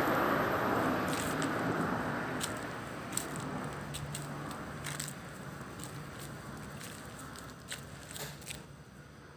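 Scattered small crunching clicks and crackles, over a rumble that fades away in the first few seconds.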